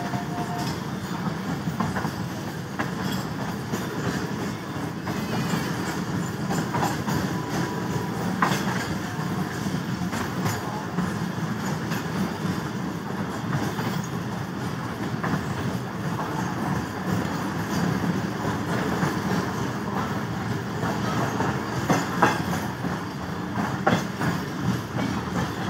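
Passenger train running on the track: a steady rumble of wheels on rail, with a few sharper clicks over rail joints.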